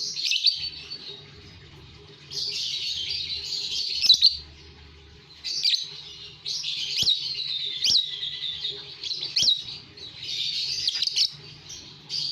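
Lovebirds chattering in high-pitched stretches of a second or two, broken by about half a dozen sharp, quick chirps.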